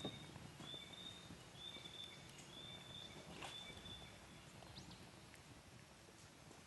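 Small wood fire crackling in a Picogrill 498 fire pit, with a sharp pop right at the start and another about three and a half seconds in. A thin high whistle repeats four or five times in the first half.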